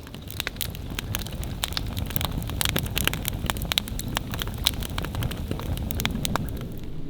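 Wood campfire crackling, with many sharp pops and snaps over a steady low rush of the flames.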